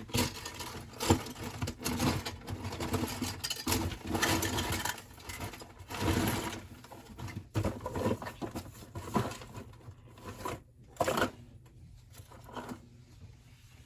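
Rummaging through colouring supplies close to the microphone: irregular clatter, clicks and rustling of markers or crayons being picked up and handled. It is busiest in the first few seconds and dies down near the end.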